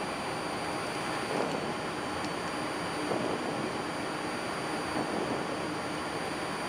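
Steady flight-deck noise of an Airbus A330 on final approach with the landing gear down: an even rush of air and engine noise, with a faint steady high whine above it.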